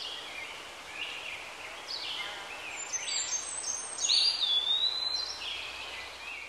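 Birds calling in short, repeated chirps over a steady background hiss, with a longer whistled call about four seconds in.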